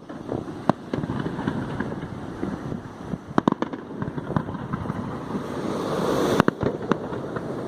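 Fireworks display: irregular sharp bangs of bursting shells over continuous crackling, with a hiss building up and ending in a bang about six and a half seconds in.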